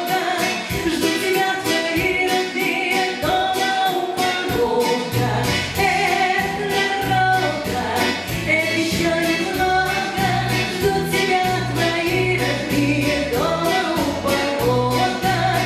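A song with singing voices over a steady beat; a bass line comes in about five seconds in.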